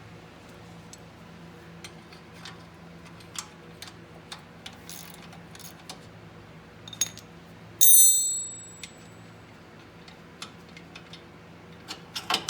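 Hand wrench working a differential mounting bolt loose: scattered light metallic clicks and taps. About 8 seconds in comes one loud metal clink that rings briefly.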